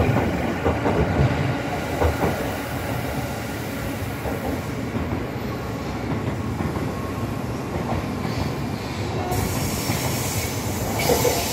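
285-series Sunrise Izumo/Seto electric sleeper train running past on an adjacent track, its wheels clacking rapidly over rail joints for the first few seconds. A steady rumble of rolling stock follows, with a higher hiss coming in later on.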